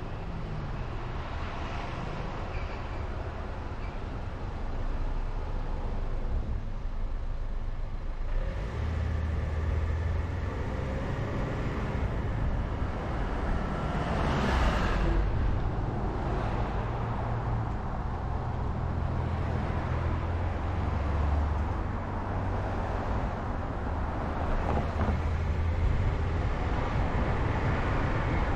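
Road noise from a car being driven: a steady rumble of tyres and engine, with a louder whoosh about halfway through.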